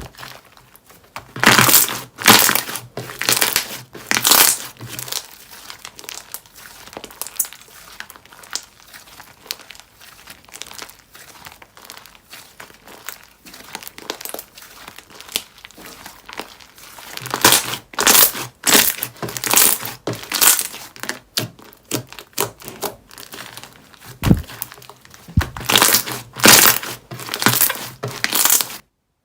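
Slime being squeezed and pressed by hand, giving dense crackling, popping clicks. It comes in two loud spells, a short one near the start and a longer one in the second half, with quieter squishing between, and cuts off abruptly just before the end.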